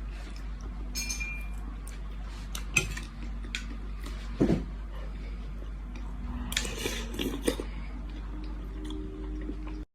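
Cutlery clinking against a dish while eating borscht: scattered light clinks and knocks, one ringing briefly about a second in and a few close together past the middle, over a steady low hum.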